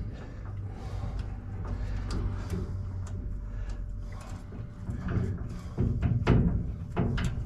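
Scattered metal knocks and clanks from work on a combine harvester's sieves, over a steady low hum; the knocks come thickest about five to seven seconds in.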